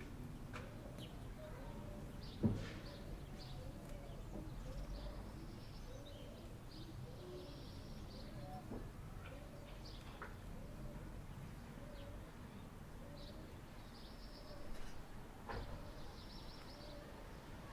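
Outdoor ambience of birds calling: a steady run of short, repeated low calls, with higher chirps over a low background hum. There is a sharp knock about two and a half seconds in, and a few lighter clicks near the end.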